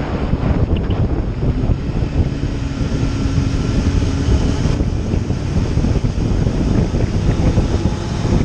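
Heavy wind rush buffeting the microphone on a moving motorcycle, with a faint steady hum for a few seconds in the middle.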